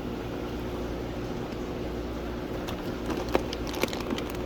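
Steady low mechanical hum with a few light clicks and taps in the second half.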